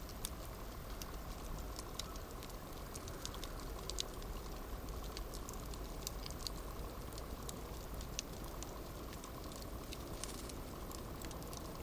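Campfire burning: a steady low hiss with frequent small, irregular crackles and pops, the sharpest about four seconds in.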